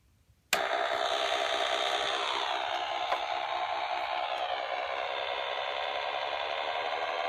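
Electronic spaceship engine sound of a 1978 Milton Bradley Star Bird toy, starting abruptly about half a second in. It is a buzzy, pulsing synthesized drone whose pitch slowly sinks and then rises again near the end. The toy is running on a decades-old 9-volt battery that still works.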